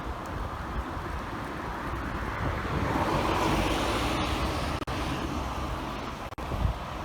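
City street traffic noise with wind rumbling on the microphone; a vehicle passes, swelling in about three seconds in and fading again. The sound drops out for an instant twice near the end.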